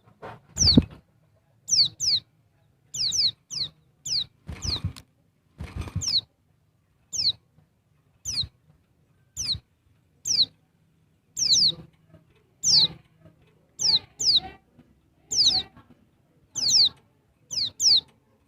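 Female white-eye (pleci) calling: short, high chirps that drop quickly in pitch, often given in quick pairs, repeated about once a second. This is the call a female gives to draw a male.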